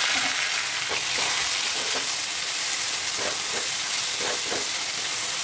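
Boiled taro stolons sizzling steadily in hot mustard oil in a metal wok, just added and being turned over with a wooden spatula, with a few soft scraping strokes of the spatula against the pan.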